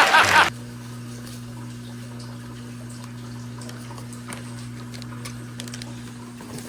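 Loud sound that cuts off about half a second in, then a steady low hum with a faint hiss and a few light clicks.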